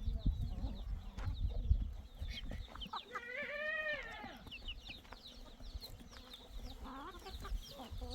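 Chickens clucking, many short calls with one longer drawn-out call about three seconds in. A low rumble runs under the first two seconds.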